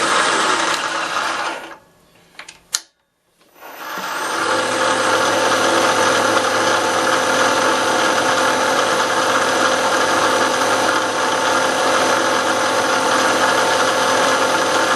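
A metalworking machine tool, most likely a milling machine cutting a metal block held in a vise, running steadily with a steady hum and whine. The sound drops away abruptly about two seconds in and comes back, steady again, about two seconds later.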